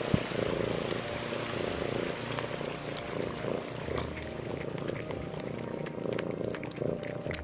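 A steady, low, purring animal rumble with a hiss over it.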